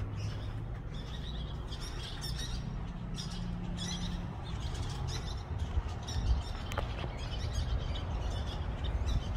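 Small birds chirping over and over, high and short, above a steady low rumble.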